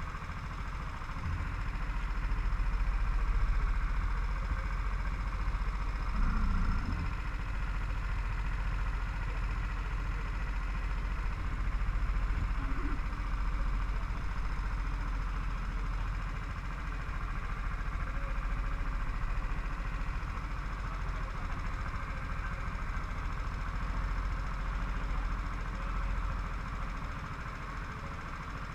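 Car engine running steadily, heard from on board the car.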